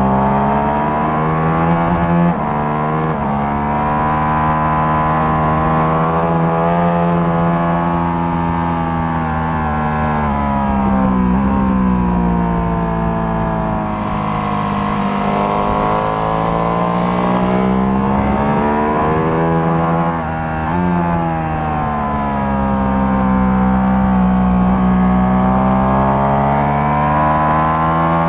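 Ducati Panigale 1199's V-twin engine on a Termignoni exhaust, ridden hard on track. The engine note climbs and falls as the bike accelerates, brakes and shifts up and down, with sudden jumps in pitch at each gear change. Wind rush rises for a few seconds midway.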